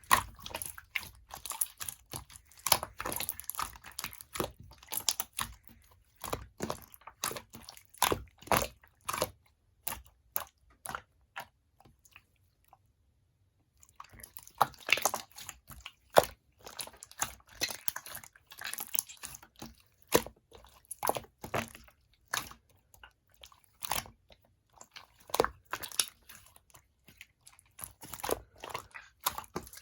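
Clear slime topped with diamond-painting beads being squished and pressed by hand, giving irregular crackling clicks and crunches. The sound stops for about a second and a half a little before halfway, then resumes.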